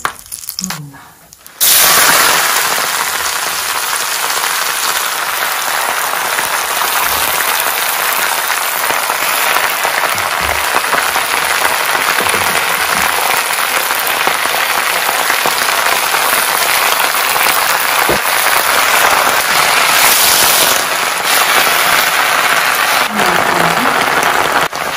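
Fresh mustard greens hitting hot oil with a dried red chilli about a second and a half in, which sets off a sudden loud, steady sizzle of frying greens that runs on as they are stirred with a wooden spatula.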